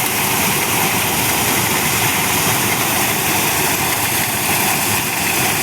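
Engine-driven corn sheller running steadily: a continuous, even machine noise.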